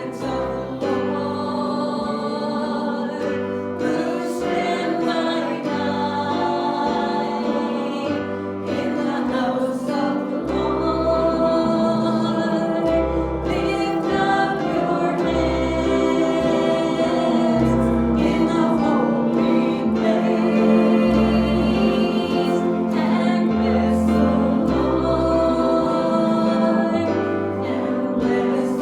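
Gospel worship song: a group of voices singing together over instrumental backing with a steady bass line.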